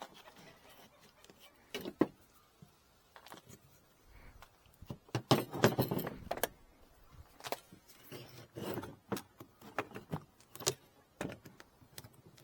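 Wooden beehive frame parts and tools being handled while a frame is assembled: scattered clicks and knocks, with a busier clatter about five to six seconds in.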